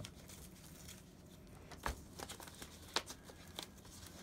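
A few light clicks and soft rustles of small objects being handled, about a second apart, over a low steady room hum.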